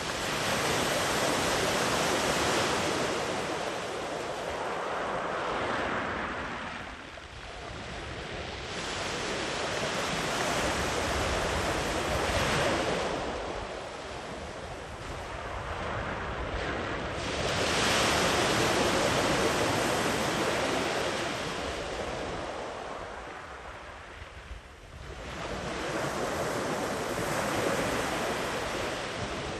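Sea waves rolling in and breaking on the shore, in repeated long surges that swell and fade every several seconds.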